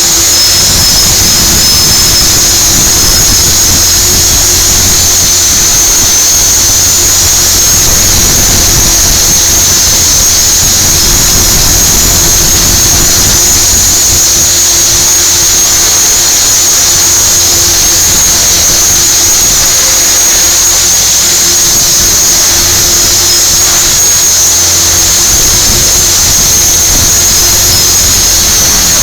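450-class RC helicopter flying, its rotor and drive giving a loud, steady high-pitched whine with a lower hum underneath.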